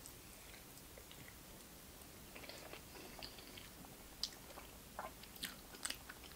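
A person chewing a mouthful of hamburger with soft, wet mouth clicks and lip smacks that start about two seconds in and come more often toward the end.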